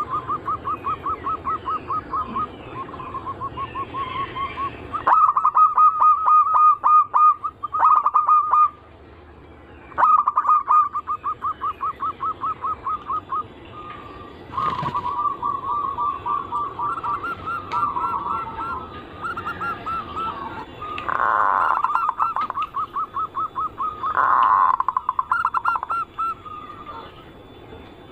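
Zebra doves (perkutut) cooing: repeated runs of quick, evenly paced coo notes, several birds' songs at slightly different pitches overlapping, with short pauses between series.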